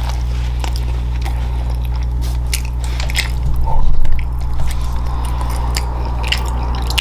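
Close-miked eating: biting and chewing with sharp mouth clicks and crunches, over a steady low electrical hum. A louder low bump comes about four seconds in.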